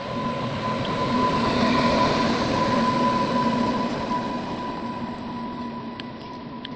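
Passenger train coaches rolling past, the noise of the wheels on the rails swelling to a peak about two seconds in and then easing off, with a steady high-pitched whine throughout and a few faint clicks near the end.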